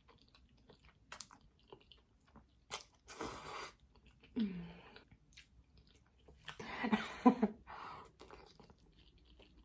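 Close-miked mouth sounds of a person chewing spaghetti: wet smacks and clicks, with louder bursts of chewing about three seconds in and around seven seconds.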